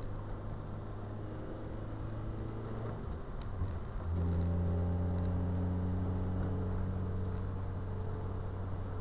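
Car engine running steadily, heard from inside the car. About three seconds in it breaks off briefly for an upshift, then comes back louder and lower in pitch, pulling under load.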